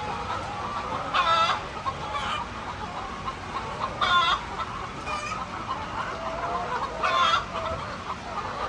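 A flock of chickens clucking and chattering continuously, with three louder short squawks about three seconds apart.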